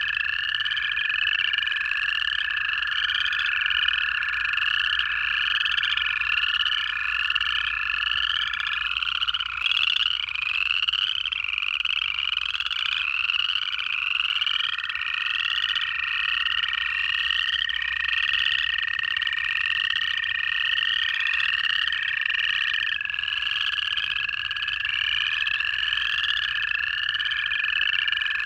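A dense pond chorus of upland chorus frogs, whose rising trills repeat about twice a second throughout. Several long, steady American toad trills overlap beneath them, one stopping about a third of the way in and another starting about halfway through. This is an early-season winter breeding chorus.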